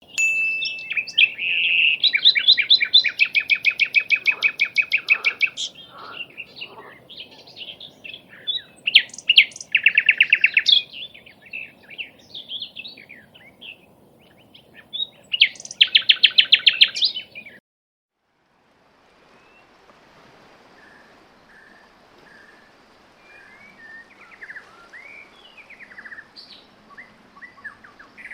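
Songbirds singing: loud, fast trilled phrases of rapidly repeated notes in three bouts. About two-thirds through the sound cuts off suddenly for a second or so, then fainter, scattered chirps and short calls carry on.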